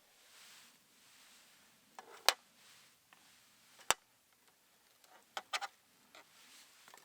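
A few sharp clicks and knocks over a faint background: a loud one about two seconds in, another about four seconds in, and a quick cluster of three or four about five and a half seconds in.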